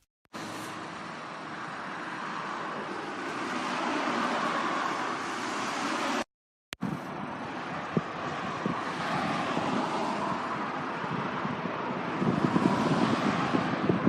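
Boeing 737 jet engines at takeoff thrust: a steady rushing noise that cuts out for about half a second near the middle, then resumes and grows louder, with more low rumble near the end.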